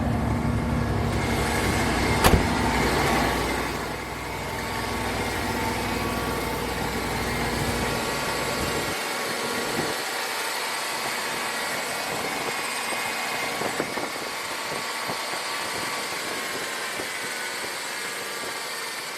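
Ford 300 cubic inch inline-six in an F-150 idling steadily with a jump pack connected, after an intermittent no-crank. There is a sharp click about two seconds in, and the deep rumble drops away about nine seconds in, leaving a fainter steady running sound.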